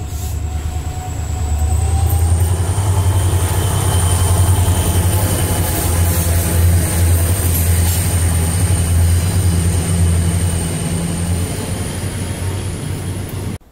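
Diesel-hauled passenger train passing close by: a heavy, steady low engine rumble with the rolling of wheels on rails, swelling about two seconds in, with a thin steady high tone above it. The sound cuts off abruptly near the end.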